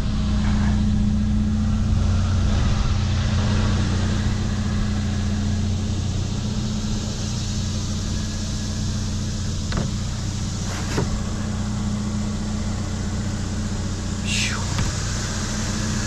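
A vehicle engine runs with a steady low hum. A couple of short clicks come about ten and eleven seconds in, and a brief falling squeak comes near the end.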